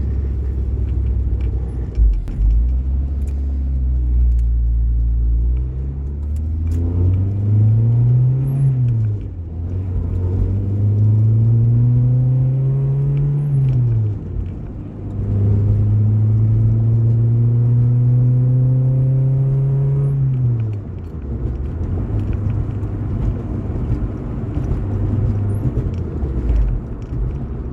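Honda H23 VTEC 2.3-litre DOHC four-cylinder engine pulling hard through the gears, heard from inside the car. Its pitch climbs and falls abruptly three times at the upshifts, then settles into a steady cruise. The cabin is extremely loud and vibrating, which the driver suspects may come from the balance shaft delete.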